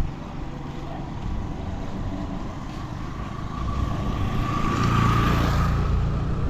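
A motor vehicle passing on the road: a steady engine rumble that grows louder to a peak about five seconds in, with a faint whine at its loudest, then starts to fade.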